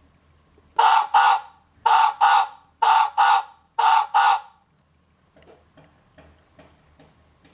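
A farm bird's harsh, squawking calls: four quick pairs of calls about a second apart, then they stop.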